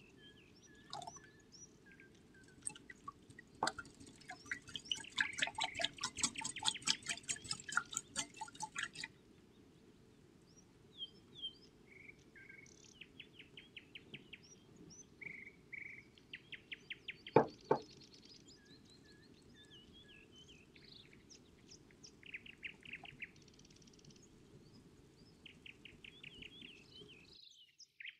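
Small birds chirping and trilling in short repeated phrases. A stretch of rapid, regular clicking comes in the first third. A single sharp knock a little past the middle is the loudest sound.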